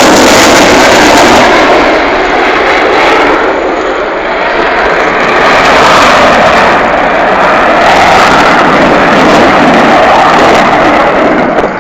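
Loud jet noise from a Panavia Tornado GR4's twin RB199 turbofan engines flying past, easing slightly about four seconds in and then building again.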